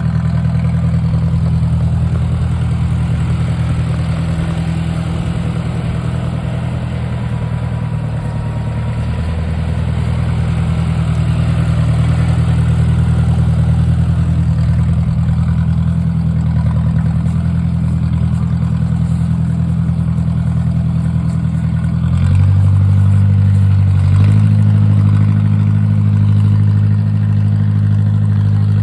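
1953 Ford Jubilee tractor's four-cylinder engine running steadily. Well into the stretch its note steps up and gets louder, twice in quick succession.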